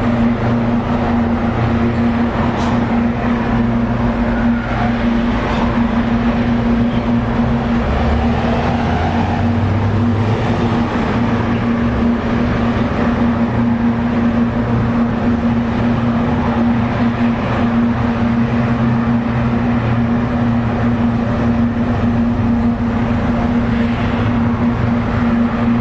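An engine running steadily, with a constant pitched hum and a low rumble underneath.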